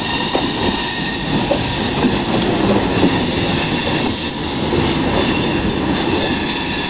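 Freight cars rolling along the rails, a steady rumble of wheels on track with a few clicks and a faint high squeal from the wheels on the curve.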